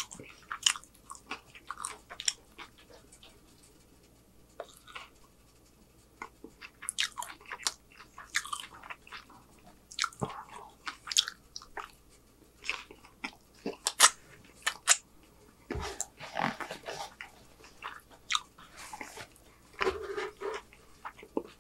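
Close-miked chewing of a mouthful of homemade chicken street taco: many short wet clicks and smacks of the mouth, sparse for a couple of seconds about four seconds in, then denser through the second half.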